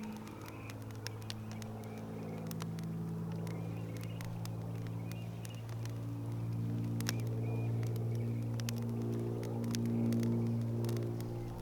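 Campfire burning, with sharp crackles and pops scattered irregularly, over a steady low drone.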